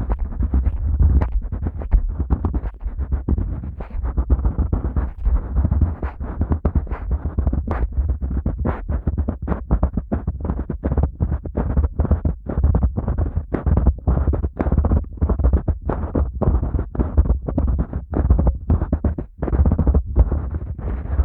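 Hands rubbing and massaging the rubber outer ear of a Neumann KU100 dummy-head microphone, a fast, uneven run of rubbing strokes with a deep rumble on the microphone.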